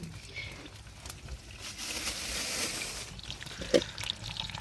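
Water pouring and trickling, swelling to a steady hiss about two seconds in. A brief sharp sound comes near the end.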